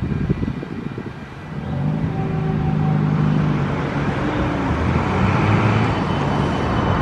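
A road vehicle's engine running, a low steady hum that swells louder about two seconds in and holds.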